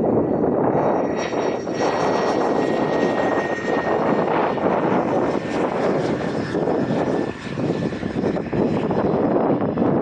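Fixed-wing airplane engine running loud and steady, with a thin high whine over it; the sound cuts off suddenly at the end.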